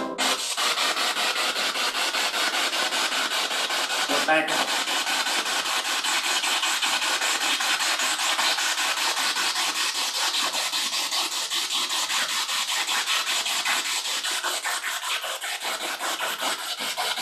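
Spirit box sweeping through radio stations: continuous hissing static chopped into rapid pulses many times a second, with a brief snatch of sound about four seconds in.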